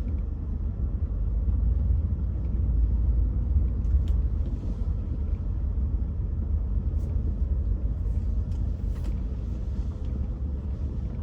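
Car driving slowly, a steady low rumble of engine and tyres heard from inside the cabin, swelling slightly a couple of seconds in.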